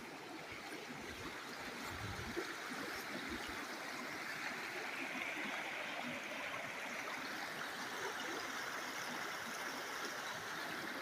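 A river flowing, a steady rush of water that grows a little louder over the first few seconds.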